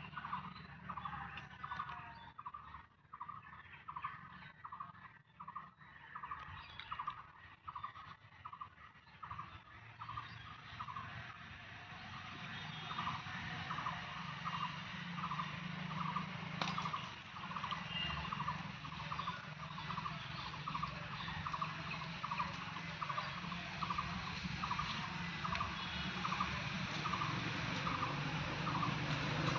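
A bird calling the same short note over and over, about two to three times a second, over a steady low rumble of distant traffic.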